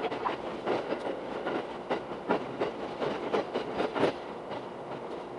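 Shinano Railway SR1-series electric train running on the rails, heard inside the car and played back at six times speed. The wheel clatter over rail joints comes as a fast, uneven run of clicks over a steady rumble.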